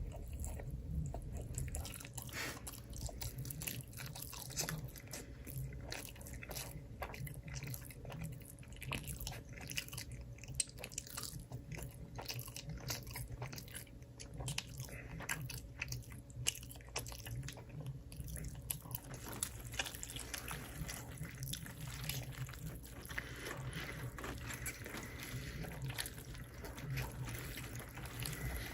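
Close-miked chewing and biting of crunchy food, with many irregular small crunches and clicks.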